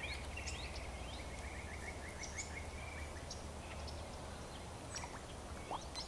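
Songbirds singing: one bird gives a run of quick, repeated short rising notes for about three seconds, with scattered higher chirps from others, over a steady low rumble.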